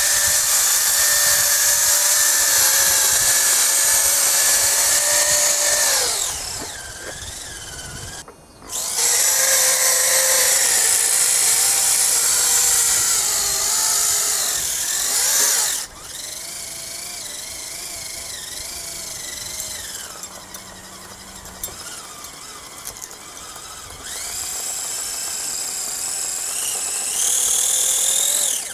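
Electric motor and gear drivetrain of a home-built steel RC truck whining as it drives, in long runs that wind down and start again. The whine drops away about six seconds in, comes back loud, then runs quieter and picks up again near the end.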